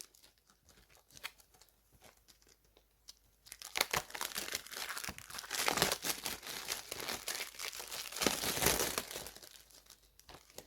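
Plastic shrink-wrap being torn and peeled off a DVD case, crinkling and crackling. It starts with a few faint clicks and becomes a dense, louder crinkling from about four seconds in, easing off near the end.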